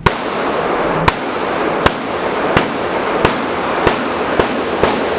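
A steady string of about eight handgun shots, roughly one every two-thirds of a second, each a sharp crack with echo hanging between them.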